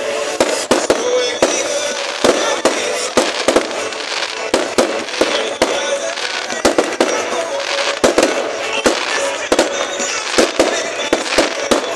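Fireworks going off in quick, irregular succession: sharp bangs and crackles, several a second, with music playing underneath.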